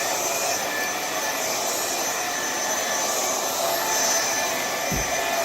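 VACLAB cordless stick vacuum running at full suction over carpet: a steady high motor whine over rushing air, swelling and easing about every second and a half. A low thump near the end.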